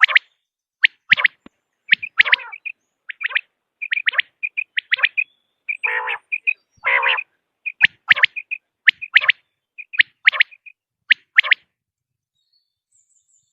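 Common quail calling: quick groups of short, sharp high notes repeated over and over, mixed with a few lower, harsher notes, then a brief pause near the end.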